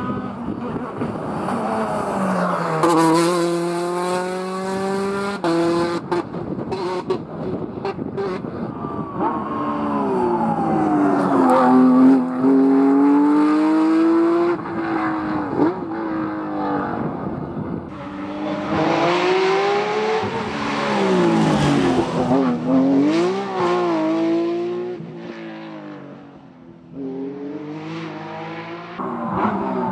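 Rally cars at speed, engines revving up and dropping back again and again through gear changes and lifts off the throttle. Several cars go by one after another, with a brief dip in level shortly before the end.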